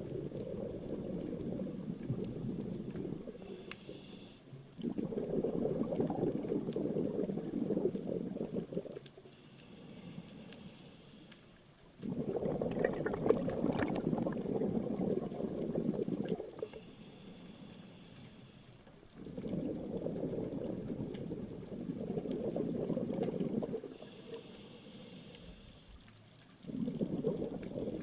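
A scuba diver breathing through a regulator underwater. Exhaled air leaves as bubbles in bursts of three to four seconds about every seven seconds, with the fainter hiss of inhaling through the regulator in between.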